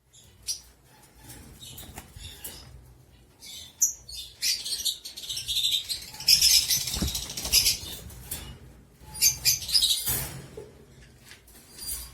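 Cockatiel flapping its wings in two long flurries, one around the middle and one near the end, with scattered light clicks before them.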